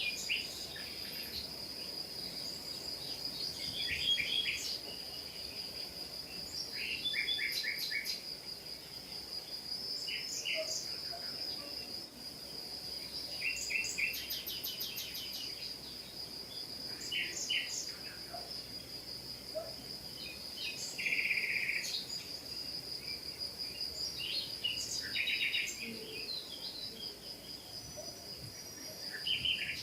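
Small birds chirping in short bursts and trills every second or two, over a steady high-pitched insect trill.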